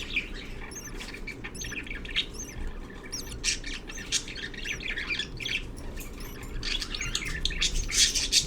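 Budgerigars chirping and squawking in short, rapid calls, with high repeated chirps throughout and louder squawks near the end, over a steady low hum.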